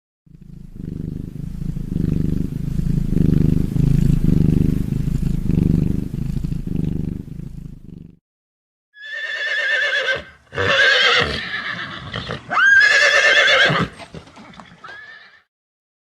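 A low, pulsing rumble for about eight seconds. Then, from about nine seconds in, a horse whinnying: several loud, quavering neighs, one with a sharp rise in pitch.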